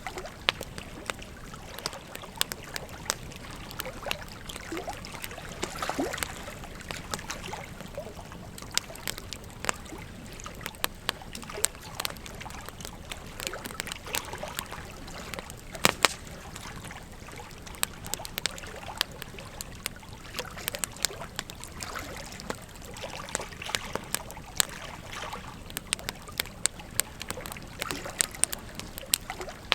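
Wood fire crackling with many sharp, irregular pops, over the steady rush of a flowing river. The loudest pops come as a close pair about halfway through.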